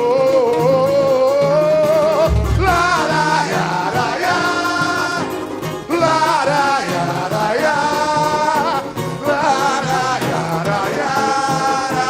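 Samba-enredo sung by a choir of voices in long held and sliding notes over a samba bateria, whose low drum pattern repeats steadily, played live.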